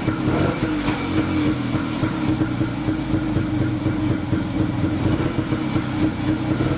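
1938 DKW SB 250 Sport's single-cylinder two-stroke engine running steadily at an even speed, warming up after a cold start.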